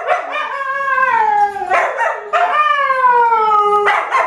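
Dog howling: two long howls, each sliding down in pitch.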